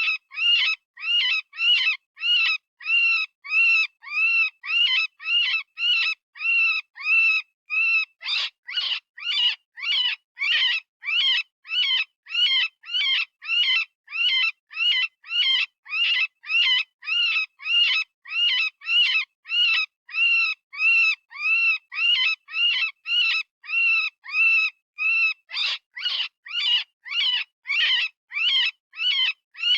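Synthesized rabbit distress call, a short high-pitched scream with a rise-and-fall pitch, repeated about twice a second with brief silences between. Twice the pattern briefly changes to a coarser cry before the even run of screams resumes.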